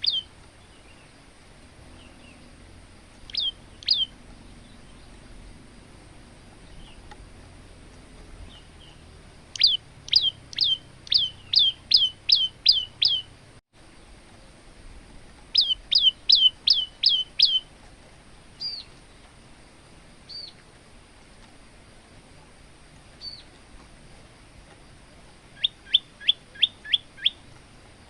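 Male olive-backed tailorbird singing: sharp, high, downward-sweeping notes given in fast runs of six to eight at about four a second, three runs in all, with scattered single and paired notes between them.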